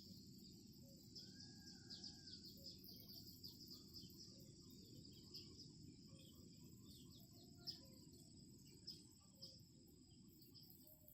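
Faint outdoor ambience: many small birds chirping over a steady, high insect buzz, with a low rumble of wind or background noise underneath.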